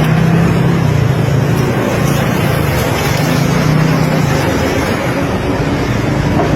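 A motor vehicle's engine running steadily, a low hum amid road noise.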